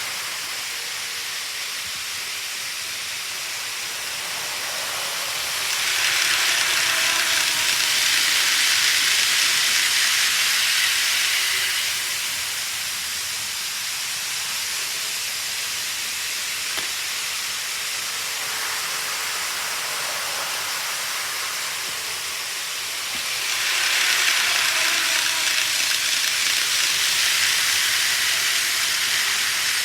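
Model train running on a track layout: a steady rolling hiss of wheels and motor that swells louder twice, about 17 seconds apart, as the train comes round the loop past the microphone, with a faint motor whine in the louder stretches.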